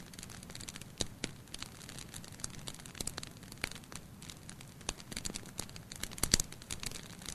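Wood fire crackling in a fireplace: irregular small pops and snaps over a soft steady hiss, with one louder pop about six seconds in.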